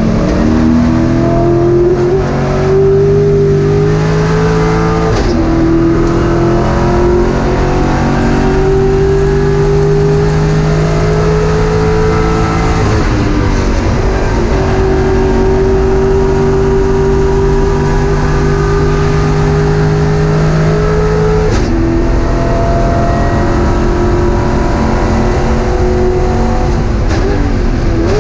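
Race car engine at high revs heard from inside the cockpit under hard acceleration: its pitch climbs steadily and drops sharply at each upshift, about five seconds in and again about three-quarters of the way through, with a slower fall and climb near the middle.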